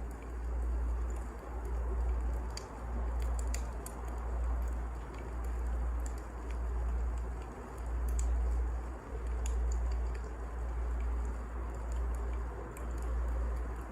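Wood fire burning, with sparse sharp crackles over a low rumble that swells and fades every second or so.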